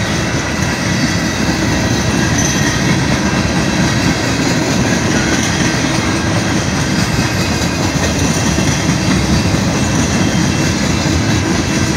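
Freight train of hopper and open-top gondola cars rolling past at close range: a steady, heavy rumble of steel wheels on the rails.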